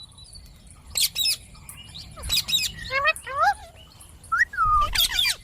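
Indian ringneck parakeet calling in a string of short, sharp chirps and squawks, each bending up and down in pitch, with brief pauses between them.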